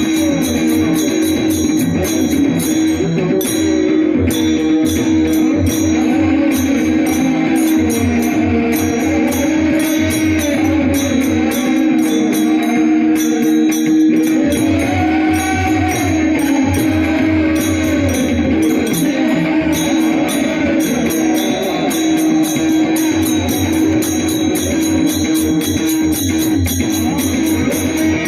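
Varkari kirtan music: a sung devotional melody with wavering, ornamented lines over a steady drone. A pakhawaj drum beats the rhythm and small cymbals jingle in a quick, even pattern.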